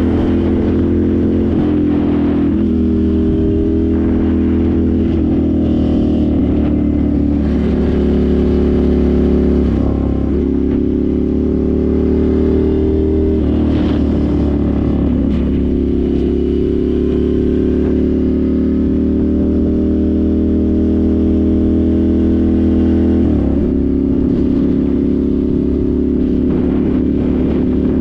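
Ducati Monster 796's air-cooled L-twin through twin Akrapovic silencers, under way. Its pitch climbs slowly and drops back sharply about ten seconds in, again near fourteen seconds, and again around twenty-three seconds.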